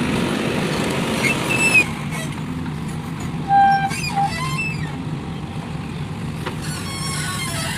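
Diesel engines of a backhoe loader and tractors running steadily. The noise eases slightly about two seconds in, and a short high tone sounds about three and a half seconds in.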